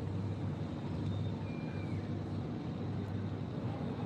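Steady low background rumble with no clear events, and a faint short high whistle about one and a half seconds in.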